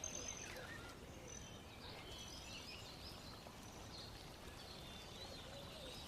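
Faint birds chirping and twittering over a low, steady hiss: a quiet outdoor birdsong background.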